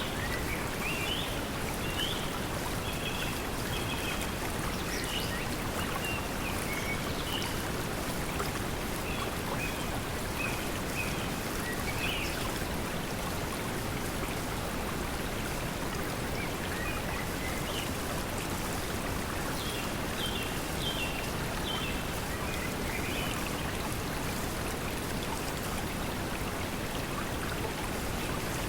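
Steady pink noise blended with the sound of flowing water, an even hiss that never changes in level. Short bird chirps come and go over it in scattered bursts, several in the first dozen seconds and again in the last third.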